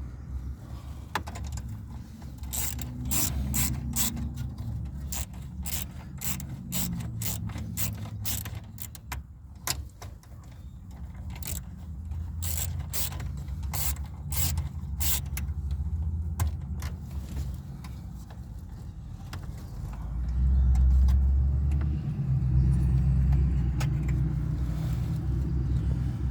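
Socket ratchet clicking in quick runs as the 8mm screws holding a truck's dash radio are backed out. Low rumbling handling noise grows louder in the last few seconds.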